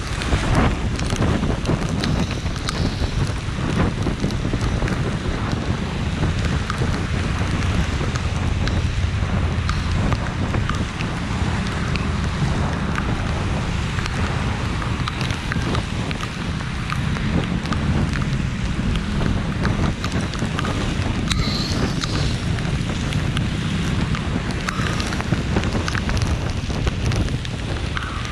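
Steady rain falling hard, with many small drop ticks and a low rumble of wind buffeting the microphone.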